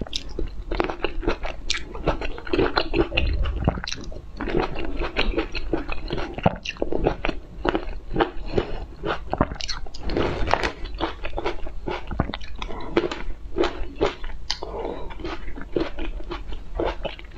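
Close-miked mouth sounds of someone biting and chewing small round red morsels one after another: crisp crunching with many sharp crackles and wet chewing throughout.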